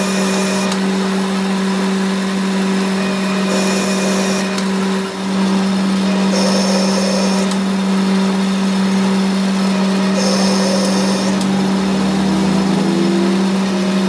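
A workshop machine's motor running steadily with a constant hum; a short high hiss comes back about every three and a half seconds.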